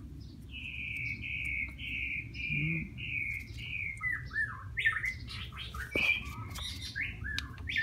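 A bird singing: a quick run of about seven repeated chirps, then a few falling notes and a string of varied chirps.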